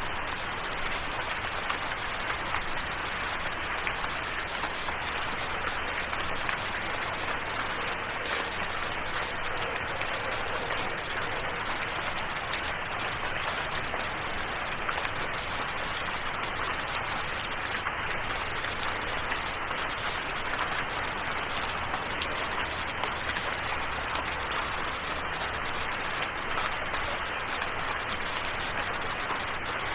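Steady rain falling, a dense, even hiss of drops pattering on a surface.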